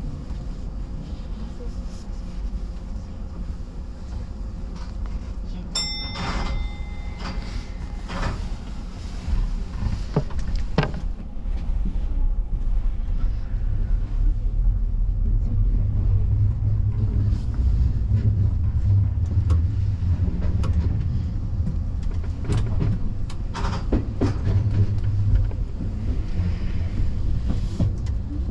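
Keio Inokashira Line electric commuter train creeping toward its terminus after a hold at a stop signal: steady running noise, a short beep about six seconds in, a few sharp clicks, then a heavier low rumble of wheels on rail building from about halfway.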